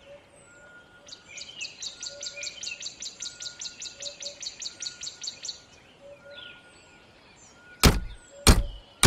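Morning birdsong: a bird chirping rapidly, about five high chirps a second, for several seconds. Near the end come three loud knocks on a door, someone knocking to be let in.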